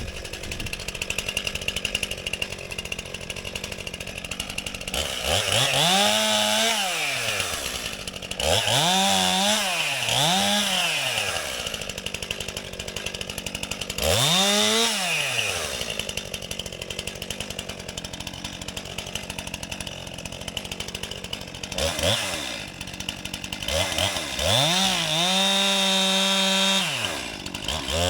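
Chainsaw idling and revved up repeatedly, its engine pitch rising and falling back about six times, with a longer run held at high revs near the end.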